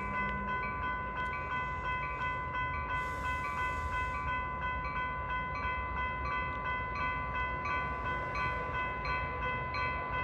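Railroad grade-crossing warning bells ringing in a fast, steady, even rhythm, over a low rumble: the crossing is activated for an approaching train.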